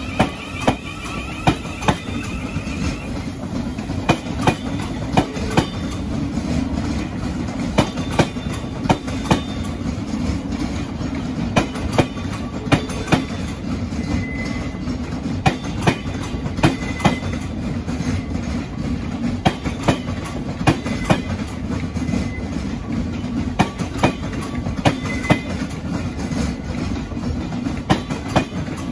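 Thameslink Class 700 electric train running slowly over the station pointwork: sharp wheel clicks, often in quick pairs as each bogie's wheelsets cross the rail joints, repeat about once a second over a steady low rumble. A faint rising whine fades out about three seconds in.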